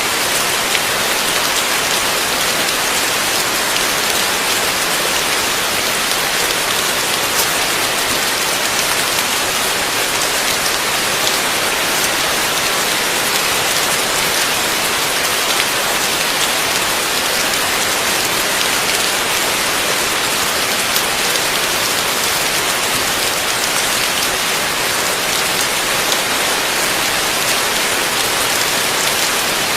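Heavy rain falling steadily, a dense even hiss of drops with faint individual drop ticks scattered through it.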